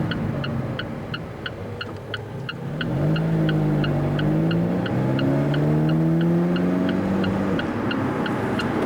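Car engine accelerating, its pitch rising from about three seconds in, dropping at an upshift near the middle, then rising again before easing off near the end. A rapid electronic beeping, about four short beeps a second, runs under it.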